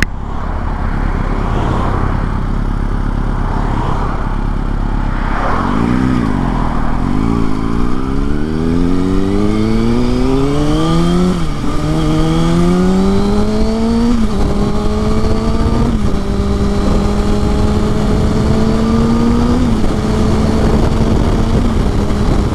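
Kawasaki ZX-6R's inline-four engine accelerating through the gears. Its pitch rises in each gear and drops sharply at four quick upshifts, then holds a steady note near the end.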